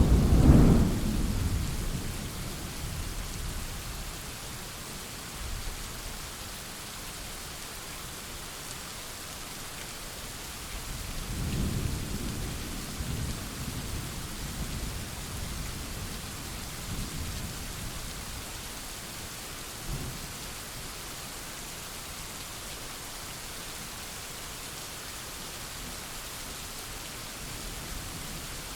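Thunderstorm: steady rain hissing throughout, with a loud thunderclap right at the start that rolls away over a few seconds, a second, quieter rumble of thunder about eleven seconds in, and a brief low thump near twenty seconds.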